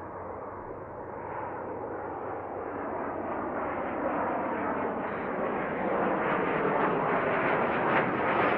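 Airplane engine noise growing steadily louder as the aircraft draws closer, with a faint high whine joining in about five seconds in.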